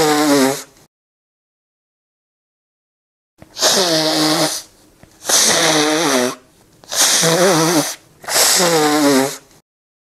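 A person blowing their nose hard into a tissue. One blow ends a little under a second in, and after a pause of about two and a half seconds come four more blows of about a second each, their pitch wavering.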